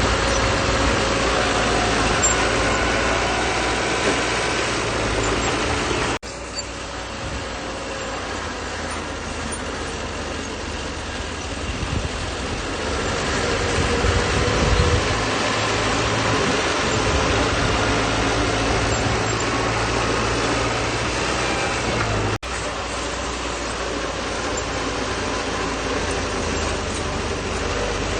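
Bulldozer's diesel engine running steadily. The sound breaks off sharply for an instant twice, about six seconds in and again near the end, and picks up each time at a slightly different level.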